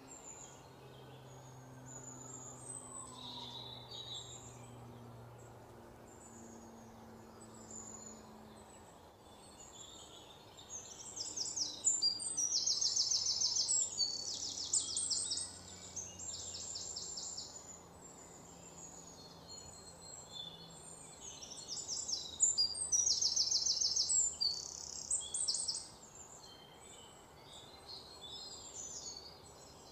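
Birdsong: scattered high chirps and fast, repeated trills, with two louder stretches of trilling, about eleven and twenty-two seconds in.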